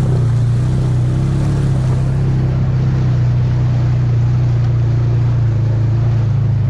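ATV engine running at a steady speed, a constant low drone with no change in pitch.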